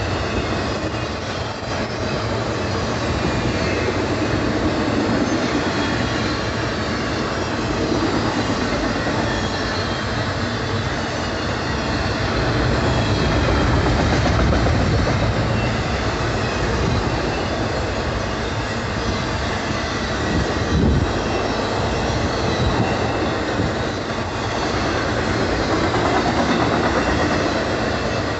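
Loaded intermodal freight cars, carrying highway trailers and double-stacked containers, rolling past at speed: a steady rumble of steel wheels on rail with clickety-clack.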